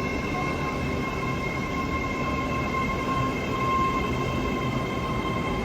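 Train running at a station, a steady low rumble with several steady high-pitched whining tones over it.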